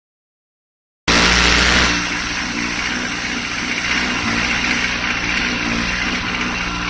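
Honda CB1300 Super Bol d'Or's inline-four engine idling through a Nojima Engineering exhaust, running steadily. The sound cuts in abruptly about a second in, a little louder for its first second before settling.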